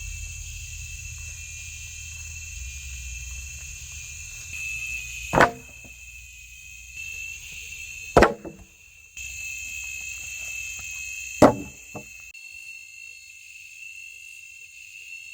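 Three sharp chopping strikes, about three seconds apart, over the steady high drone of rainforest insects.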